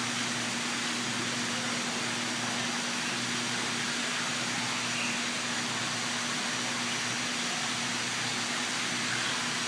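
Steady hissing background noise with a constant low hum underneath, unchanging throughout.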